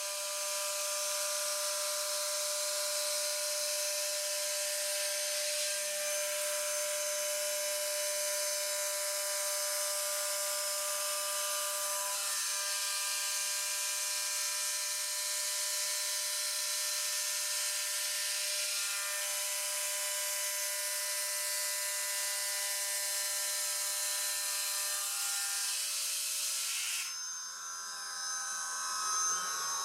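CNC router spindle at 12,000 RPM running a 3-flute chamfer tool along an aluminium panel: a steady high whine of several tones with a dense hiss over it. A few seconds before the end the hiss stops suddenly, and the whine then glides down as the spindle spins down at the end of the finishing pass.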